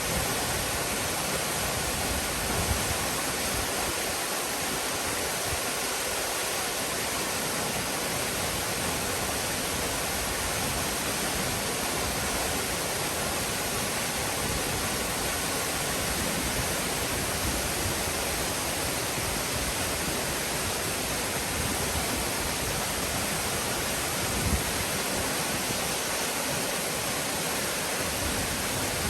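Steady rushing of falling water at Nunobiki Falls, a waterfall, as an even, unbroken roar.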